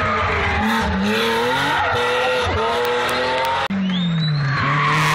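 Rally car engine revving up and down through the gears as it approaches. There is an abrupt break about three and a half seconds in, after which a steadier, slowly falling engine note continues.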